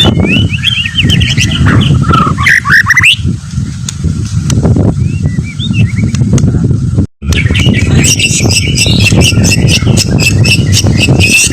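White-rumped shama (murai batu) singing a varied song of whistled glides and trills over a steady low rumble. The sound cuts out briefly about seven seconds in, and a dense, fast run of high notes follows.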